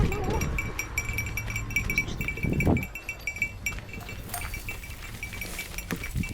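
A goat bleating with a wavering cry right at the start, over a rapid, steady high-pitched chirping, with a louder low sound about two and a half seconds in.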